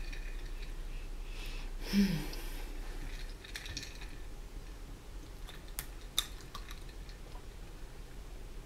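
Faint chewing and mouth sounds from a person eating fried chicken wings, with a short louder mouth sound about two seconds in and two sharp clicks about six seconds in.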